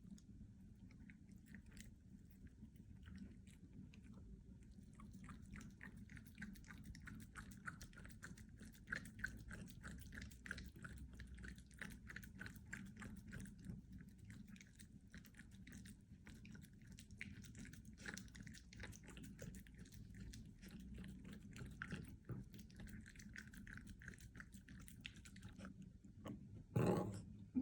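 A puppy chewing and crunching food or a treat, many quick small crunches in a row. A brief louder noise comes near the end.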